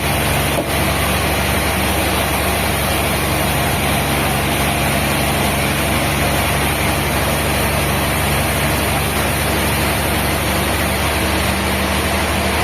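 Heavy machinery running steadily: a large engine's low, even hum under a constant wash of mechanical noise, with no cuts or impacts standing out.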